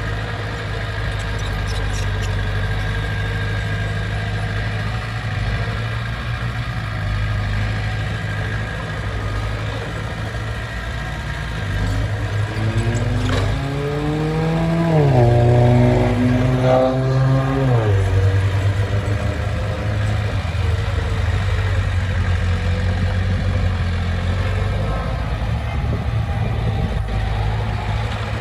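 Heavy earthmoving machine's diesel engine running steadily, revving up about halfway through, holding the higher speed for a couple of seconds, then dropping back to its steady run.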